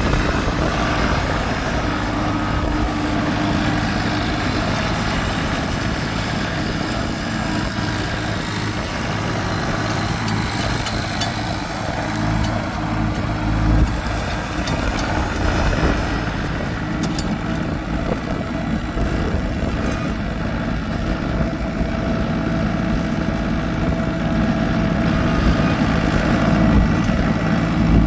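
New Holland compact tractor's engine running steadily.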